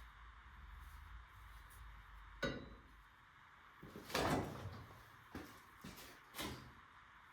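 Handling noises: a sharp knock, then a louder clunk with a short rattle a little after, followed by three lighter knocks. A low hum underneath dies away partway through.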